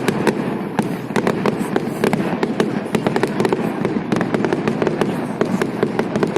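Festive fireworks salute: a dense, continuous crackle of many rapid pops and bangs, several each second.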